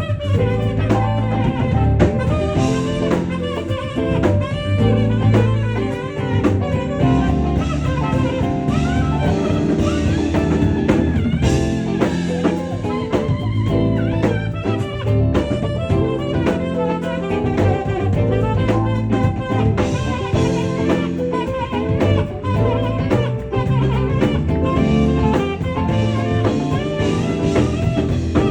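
Live jazz performance: a saxophone plays a sliding, bending melody over a drum kit and a steady low accompaniment.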